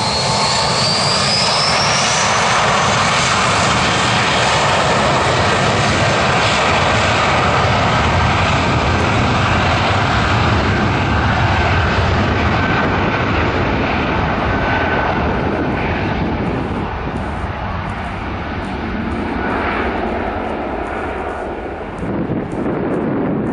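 Airbus A320's twin IAE V2500 turbofan engines at takeoff power on departure: a loud, steady jet noise, with a high whine rising in pitch in the first couple of seconds. Over the last several seconds it grows quieter and duller as the aircraft climbs away.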